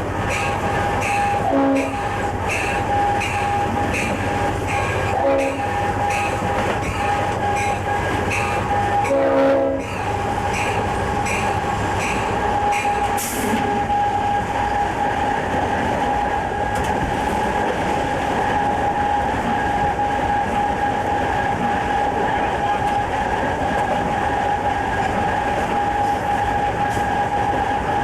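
Conrail freight train under way, its diesel locomotive and cars running steadily with a constant high tone over the rumble. For about the first ten seconds there is a regular clicking, a bit more than once a second.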